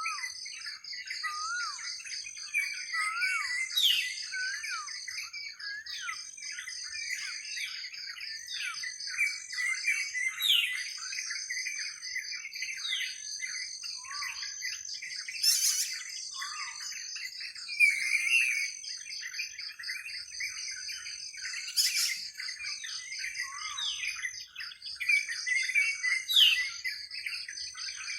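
Dawn chorus of many songbirds chirping and whistling, with quick overlapping calls and downward-sweeping notes. A steady, high-pitched pulsing trill runs behind them, and a couple of sharp clicks come in around the middle.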